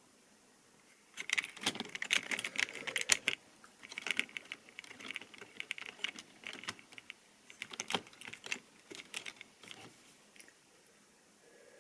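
Rapid, irregular clicking and clattering of small model railway rolling stock on track. It starts about a second in, is busiest over the next few seconds, then thins out and stops near the end.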